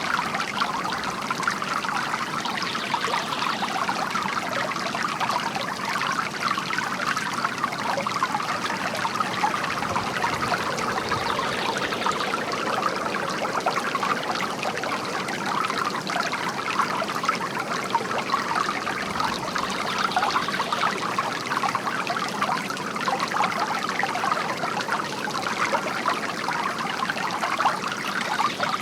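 Water from a bamboo garden fountain trickling steadily.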